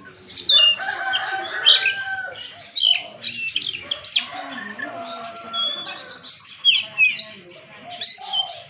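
Oriental magpie-robin (kacer) in full song: a rapid, unbroken run of varied whistles, sliding notes and trills, with mimicked phrases of other birds woven into the song.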